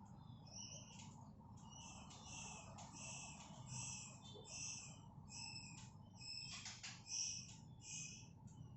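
White-rumped shama fledglings giving short, high begging chirps in quick succession, two to three a second, with a brief rustle about two-thirds of the way through.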